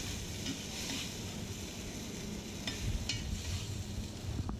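Oysters and egg sizzling in a hot wok while a metal spatula stirs and scrapes them, with several sharp scrapes of the spatula against the wok.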